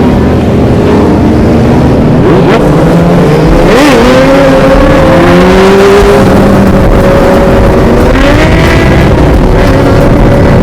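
Several motorcycle engines running loudly, with one revving up in pitch about four seconds in and again near eight seconds.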